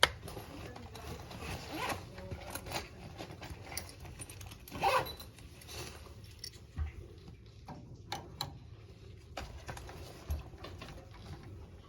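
Hands working with tools and parts at a water heater: a sharp click, then scattered clicks and short scratchy rasps like a zipper or packaging being pulled, the loudest about five seconds in.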